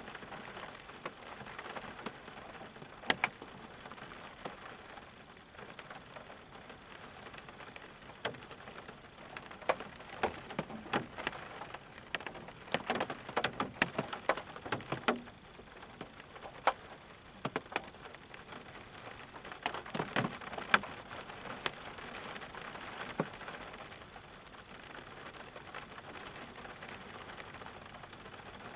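Rain falling steadily, with many sharp separate drops striking close by, bunched most thickly around the middle and again about two-thirds of the way through.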